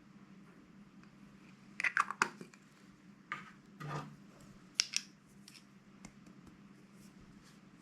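Slime packaging being handled: a few short clusters of crinkling and clicking, the loudest about two seconds in, over a faint steady hum.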